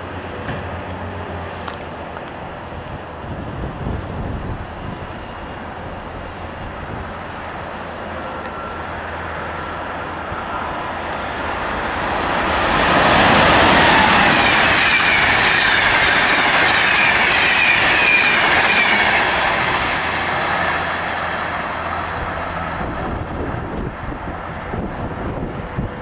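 Amtrak AEM-7 electric locomotive and its passenger train running at speed: the rumble of wheels on rail grows as it approaches, is loudest for several seconds about halfway through as it passes close by, then fades as it pulls away.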